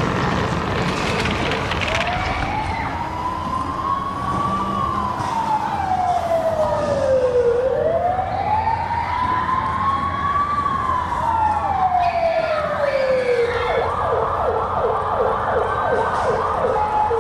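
Emergency siren wailing in two slow rise-and-fall sweeps, then switching to a fast yelp near the end, over a constant rumbling din.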